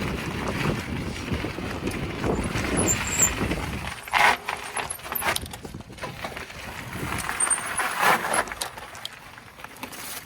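Rushing wind and road noise from a bicycle ridden fast, with two brief louder bursts about four and eight seconds in.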